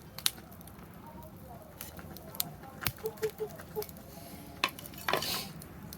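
Wood fire in a fire stand crackling, with scattered sharp pops and a short hissing flare-up of crackles about five seconds in.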